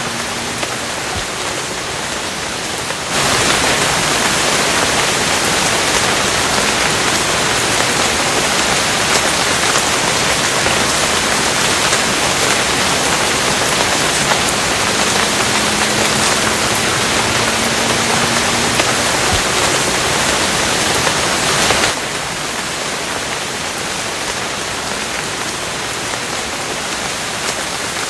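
Steady rainfall hissing. A little after the start the rain abruptly grows louder and heavier, and it drops back just as suddenly to the lighter level later on.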